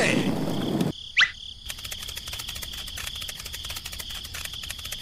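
A noisy, voice-like din cuts off abruptly about a second in, followed by a short rising whistle. After that, crickets chirr steadily as a night ambience.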